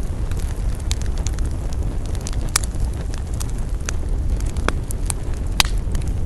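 Wood campfire crackling, with sharp pops scattered irregularly, the loudest about two and a half and five and a half seconds in, over a steady low rumble.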